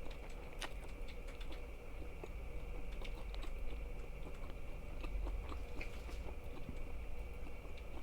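Close-miked chewing of food, with many small, sharp, irregular clicks and crackles of the mouth working.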